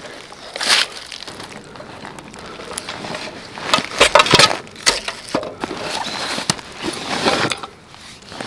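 Irregular crunching and rustling with scattered sharp clicks and knocks, loudest about four seconds in.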